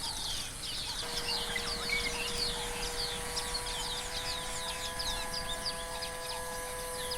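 Wild birds chirping, many short quick calls overlapping in a busy chorus. From about a second in, a few steady held tones at different pitches sound underneath, coming in one after another.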